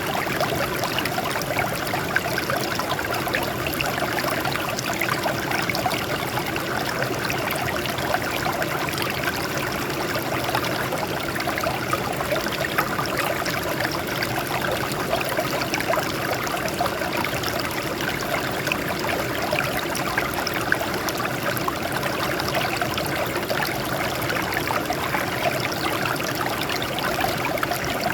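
Water flowing and trickling over rocks: a steady, even splashing and babbling with many small droplet sounds.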